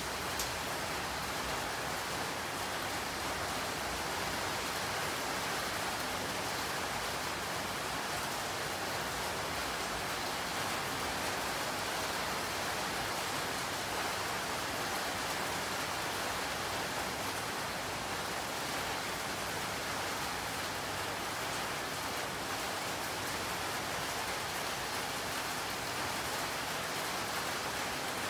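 Rain falling steadily, an even, unbroken noise.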